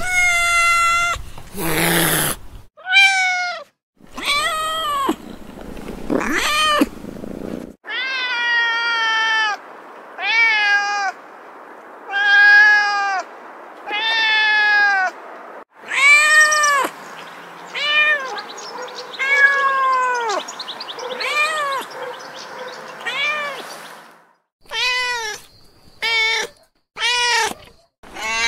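Kittens meowing over and over: a long string of separate high-pitched meows, each rising and then falling in pitch, some short and some drawn out.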